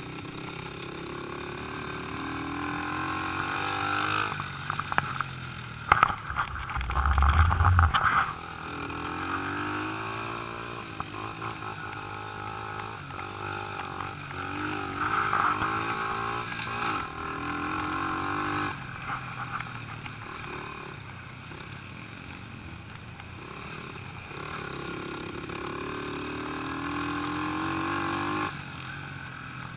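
Small pit bike engines revving up and down as the bikes ride round, the pitch rising and falling again and again. The loudest stretch is about six to eight seconds in, with a sharp click and a heavy low rumble.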